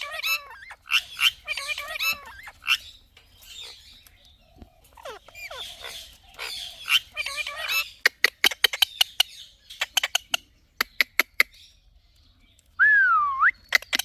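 Indian ringneck parrot chattering and squawking. This is followed by a quick run of sharp clicks, and near the end one loud whistle that dips and then rises.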